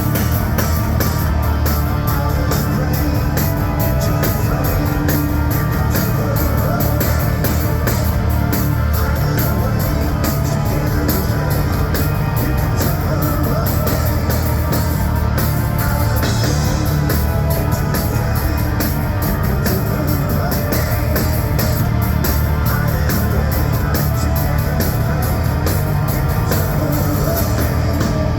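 Live rock band playing loud at full tilt: distorted electric guitar, bass and drum kit, heard through a concert hall's PA from the audience.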